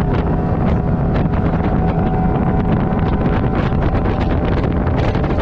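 Bass boat's outboard motor running at speed with a steady drone, and wind buffeting the microphone.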